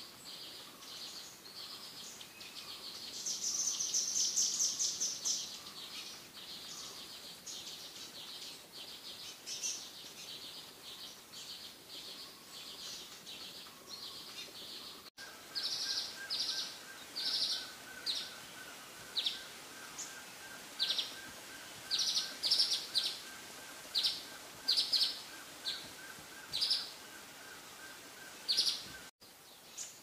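Wild birds chirping: a busy run of short high chirps, then, about halfway, separate short high calls repeated roughly once a second over a faint steady tone.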